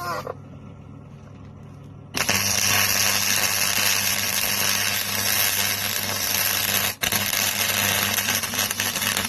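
MIG welder arc crackling and hissing as a weld bead is laid on sheet steel. It starts about two seconds in, breaks off for an instant about seven seconds in, then runs on and stops sharply.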